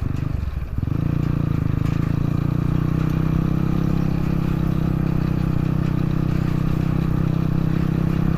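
A dirt bike's engine running under way: it dips briefly about half a second in, then holds a steady speed.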